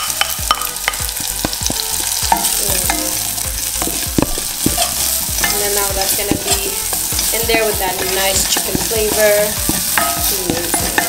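Sliced spring onions frying in a hot stainless steel saucepan, sizzling while a wooden spoon stirs them, knocking and scraping against the pan.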